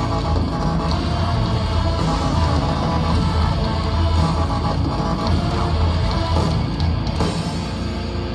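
Heavy rock band playing live: electric guitar over bass and drums, loud and steady.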